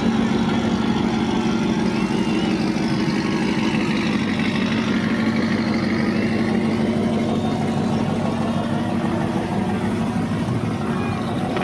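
A truck's engine running at a steady pitch, a constant drone with no revving.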